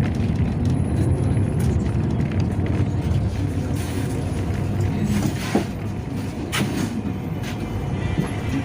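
Yutong ZK6118HGA city bus running, heard from inside: a steady low engine and road rumble, with a couple of sharp rattles or knocks a little past the middle.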